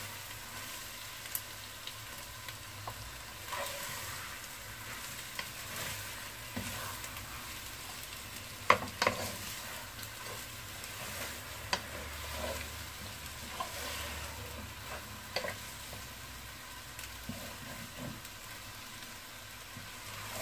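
Boiled potato pieces frying in a spice paste in a pan, a steady sizzle, with a spatula stirring through them and scattered clicks against the pan, the loudest about nine seconds in.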